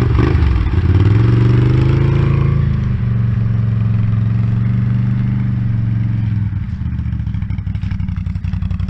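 Can-Am Outlander ATV engine with an aftermarket exhaust pulling under load: the revs climb over the first second or two, hold steady for several seconds, then drop about a second and a half before the end as the throttle eases off.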